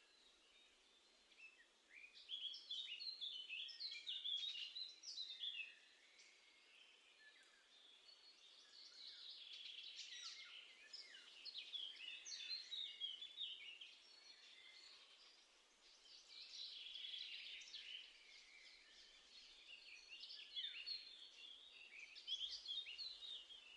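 Small songbirds singing in quick, twittering phrases, four outbursts with short pauses between.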